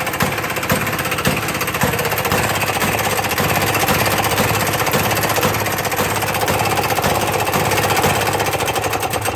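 Maytag washing machine's small two-stroke gasoline engine running steadily with an even, rapid popping beat after a hard cold start on old fuel mixed with fresh.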